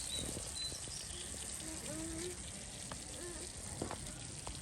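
Food frying in hot oil: a steady sizzle, with a couple of light clicks near the end.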